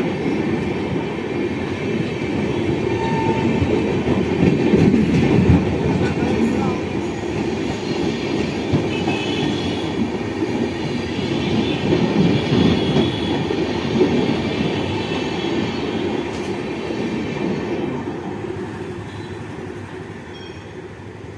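Coaches of an Indian express passenger train rolling past at speed: a steady wheel-on-rail rumble with occasional clacks over the rail joints and a faint high wheel squeal. It fades near the end as the last coach goes by.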